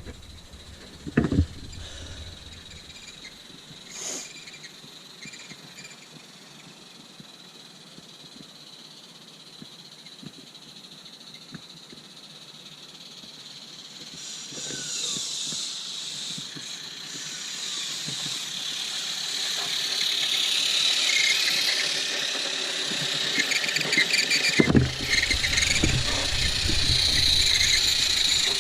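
Roundhouse Silver Lady live-steam model locomotive running, its steam exhaust hissing and chuffing, growing steadily louder through the second half as it comes closer. A couple of knocks sound near the start and a heavy thump about 25 seconds in.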